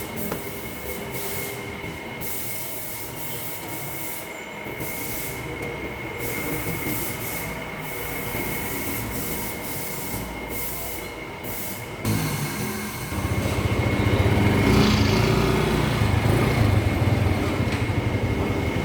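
Motor scooter running with a steady high whine over a rumble; after a cut about twelve seconds in, a louder, lower pulsing rumble.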